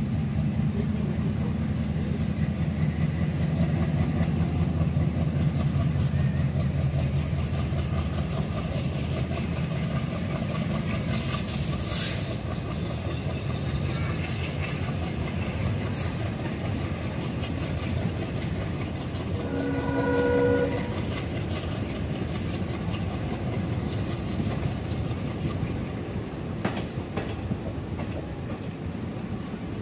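Passenger train running, heard from an open coach window: a steady rumble of wheels on rail that is heaviest in the first third, with occasional sharp rail-joint clicks. About two-thirds of the way through, the train horn sounds one blast of about a second and a half.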